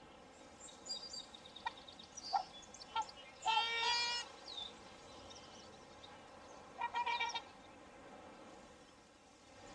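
Swans calling: one long pitched call about three and a half seconds in and a shorter one near seven seconds, among short chirps and calls from other birds.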